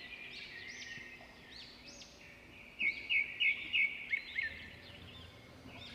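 Birds chirping and calling, with a quick run of four louder chirps about three seconds in.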